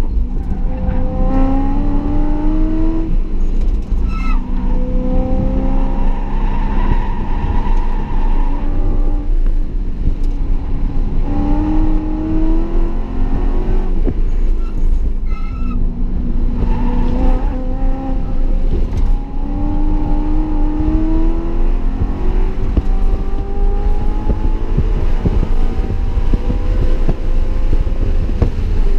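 BMW E92 M3's 4.0-litre V8, fitted with an aftermarket X-pipe, heard from inside the cabin under hard track driving: the revs climb for a few seconds at a time and fall back between pulls, about half a dozen times. A brief high squeal cuts through twice, about four seconds in and again near the middle.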